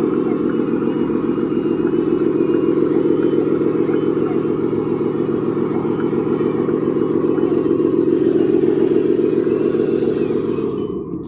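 Radio-controlled construction model's electric drive running steadily with a buzzing whine. It drops off sharply near the end.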